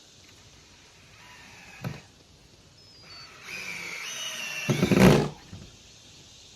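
A single knock, then a power drill driving a screw into a dock board: a whine that builds for about two seconds, grows loudest as the screw seats, and stops.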